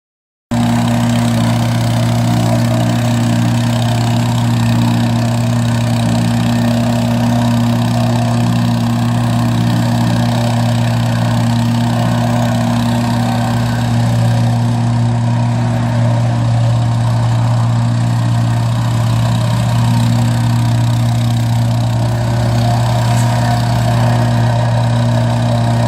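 Compactor running steadily at work, a loud, even mechanical hum with a strong low drone.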